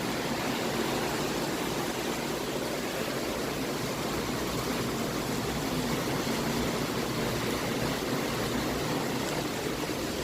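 Heavy rain falling outside, a steady, even hiss of water.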